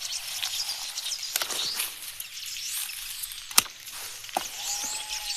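Many small birds chirping with quick rising and falling calls, one longer held note near the end, and a single sharp click midway.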